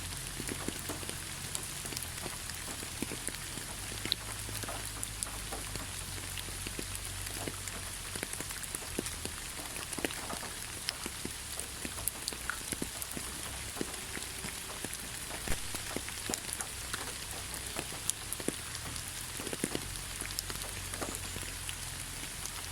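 Steady rain falling on leaves, a continuous patter with many separate drop ticks scattered through it.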